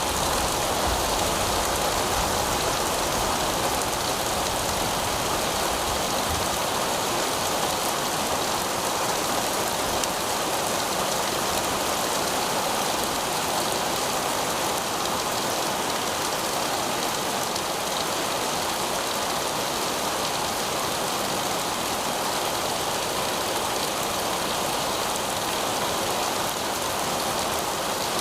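Heavy rain falling steadily on pavement, an even hiss of countless drops.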